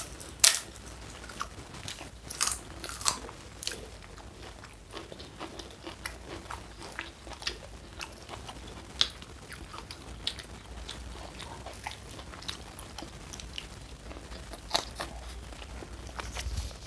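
Close-up eating sounds: crisp, crunchy bites and chewing, with scattered sharp crunches, the loudest about half a second in and others at irregular intervals.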